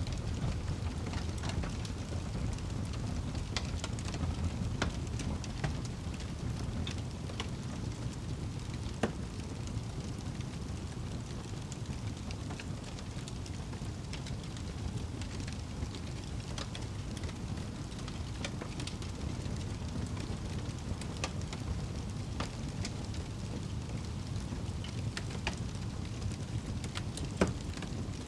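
Wood fire in a fireplace crackling, with irregular sharp pops over a steady low rumble. Two pops stand out, one about nine seconds in and a louder one near the end.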